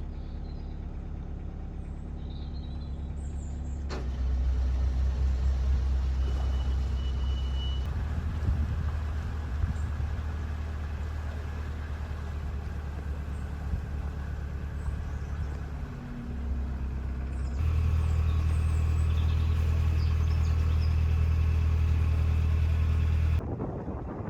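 Narrowboat diesel engine running with a steady low drone, its level jumping up and down abruptly a few times.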